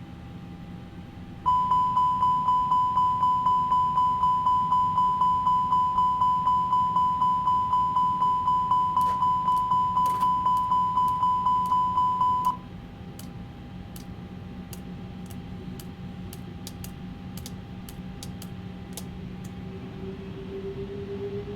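Rapid electronic beeping, about four high beeps a second, starting about a second and a half in and cutting off suddenly about eleven seconds later, over a steady low hum. Near the end a faint tone slowly rises in pitch.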